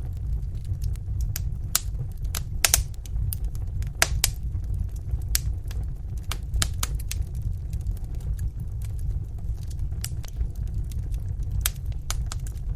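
Wood fire in a fireplace crackling: irregular sharp pops and snaps, a few louder ones around three to four seconds in, over a steady low rumble of the burning fire.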